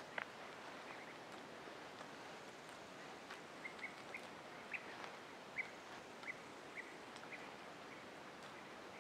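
Faint outdoor ambience: a bird gives short, repeated chirps at irregular intervals over a steady hiss, with a few light clicks.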